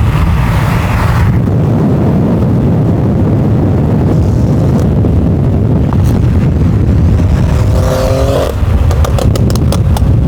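A car on the move: steady engine and road rumble, with a brief pitched sound about eight seconds in and a run of sharp clicks near the end.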